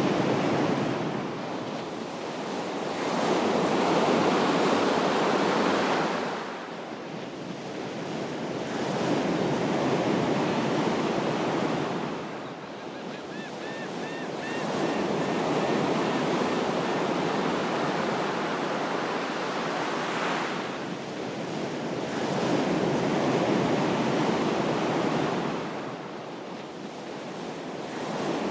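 Ocean surf: waves washing in and drawing back, the rush swelling and fading about every five or six seconds.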